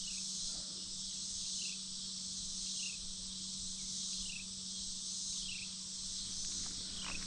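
Insect chorus (crickets or similar) making a steady high-pitched buzz. A short falling chirp repeats about once a second, over a faint steady low hum.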